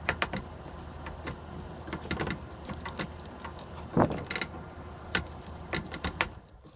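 A utensil clinking and scraping against a cooking pot as the soup is worked through, with a series of sharp knocks, the loudest about four seconds in, over a steady low hum.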